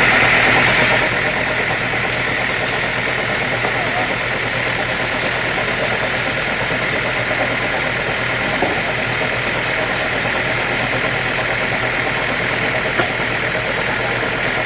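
Sawmill machinery running steadily, louder for the first second and settling to a lower, even running sound about a second in.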